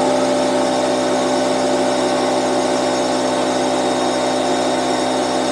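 Bostitch 6-gallon air compressor's motor and pump running steadily, filling the tank and building pressure.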